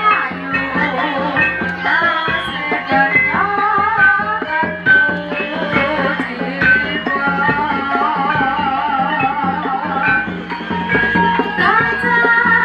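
Live Javanese jaranan music played by a troupe: drums and percussion keep up a busy rhythm under a wavering lead melody.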